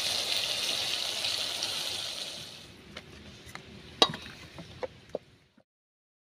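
Chicken pieces sizzling as they fry in a wok, a steady hiss that fades after about two and a half seconds. Then a few sharp, light knocks of kitchen utensils, the loudest about four seconds in, before the sound stops.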